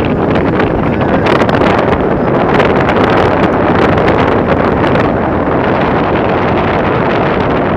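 Heavy rainstorm with strong wind, a loud steady rush of rain and gusts buffeting the microphone.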